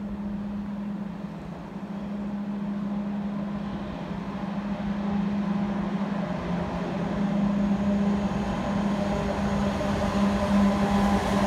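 Eurostar Class 373 high-speed electric train approaching along the platform: a steady low hum and rumble that grows gradually louder as it nears.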